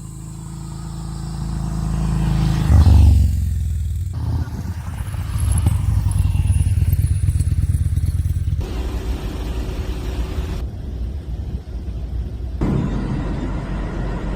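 Yamaha SCR950's air-cooled V-twin engine running while the motorcycle is ridden, its note falling around three seconds in. The sound changes abruptly several times, as between joined clips.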